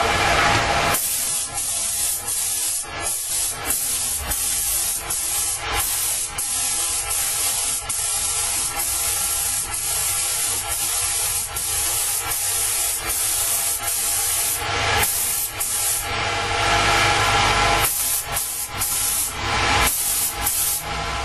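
Spray gun hissing in short bursts as it sprays thinned green engine enamel onto an engine block, the trigger pulled and released about once a second with a longer pause a little past the middle. A steady low hum runs underneath.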